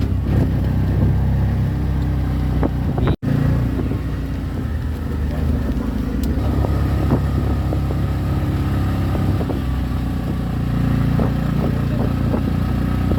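Motorcycle on the move: steady engine noise with wind rushing over the microphone, broken by a brief cut about three seconds in.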